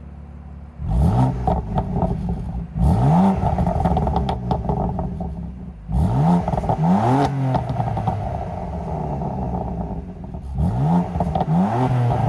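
2017 BMW F80 M3's twin-turbo inline-six with its exhaust in Sport Plus mode, idling and then revved in three sets of throttle blips, the pitch rising and falling with each. Sharp crackles and gurgles come out of the exhaust as the revs drop.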